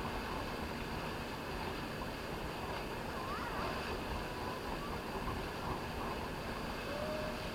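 Steady rumble and rush of a boat running on open water, with wind and water noise and faint distant voices.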